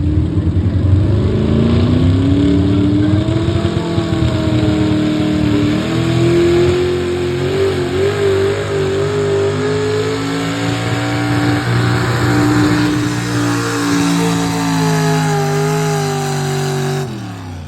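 Pickup truck engine at full throttle pulling a weighted sled. The revs climb over the first few seconds, hold high with a wavering pitch, then drop off suddenly near the end as the throttle is let off.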